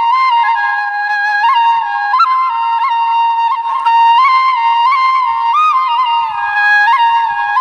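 Background music: a solo flute-like melody played around one pitch with quick ornamental note flicks.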